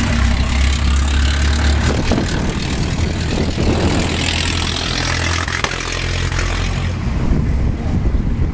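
1916 Stutz Bearcat's four-cylinder engine running as the car drives past, getting louder to a peak about four seconds in and then fading as it moves away.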